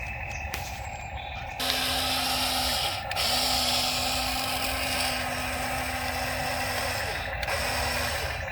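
Toy RC excavator's small electric motors whirring as its controls are worked. The whir starts about one and a half seconds in and runs in three stretches with short breaks: a long one in the middle and a brief one near the end.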